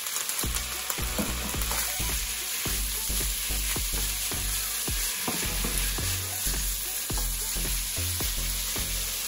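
Raw chicken strips sizzling in hot olive oil and crushed garlic in a nonstick frying pan, with the scrapes and knocks of a wooden spatula stirring them.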